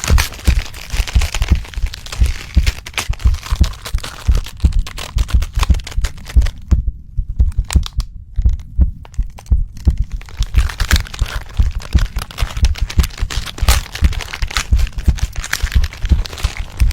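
Transformation sound effect: rapid, heavy heartbeat-like thumps run throughout, layered with cracking and crunching noises. The crackle drops away for a few seconds in the middle, leaving only the deep thumps, then returns.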